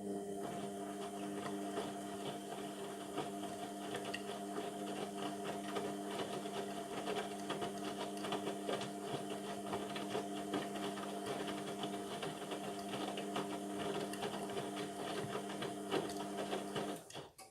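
Indesit MTWC71252WUK washing machine's drum motor running at a steady speed, turning the drum during the wash with water and clothes sloshing inside, then stopping abruptly near the end.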